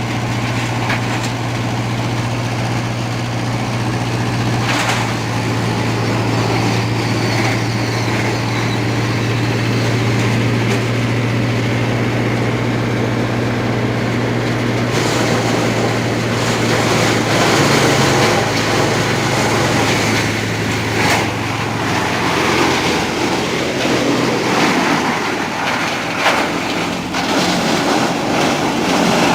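Trakstar 545 DI tractor's diesel engine running steadily, driving a wood chipper. From about halfway in, wood goes through the chipper with repeated sharp cracks and crunching, and the steady engine hum fades under the chipping near the end.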